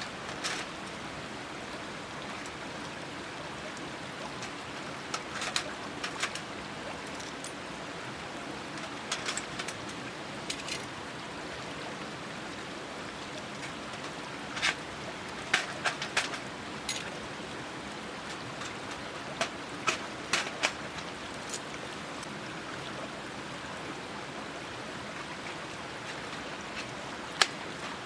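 Steady rushing of running water, with scattered short metal clicks and clinks now and then as the parts of a folding steel fire pit are fitted together. The sharpest click comes near the end.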